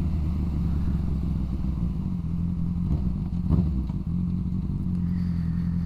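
Motorcycle engine running steadily while riding, with a couple of faint knocks about three seconds in.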